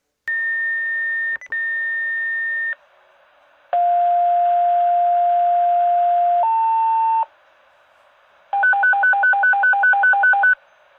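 Fire dispatch alert tones over a scanner radio: a steady high tone for about two and a half seconds, then a two-tone page, a long low tone stepping up to a short higher one, then a warbling tone alternating between two pitches about six times a second.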